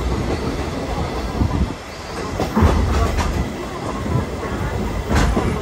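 Steam train's passenger coach running along the line: a steady low rumble broken by a few sharp knocks of the wheels over rail joints.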